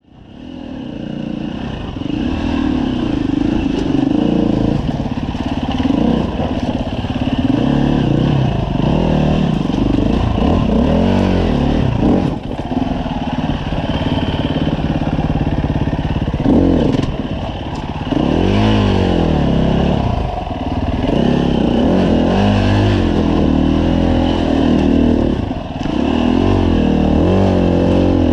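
Husqvarna FE 350 single-cylinder four-stroke dirt bike engine being ridden, its revs rising and falling again and again as the throttle is opened and closed. The sound fades in at the start.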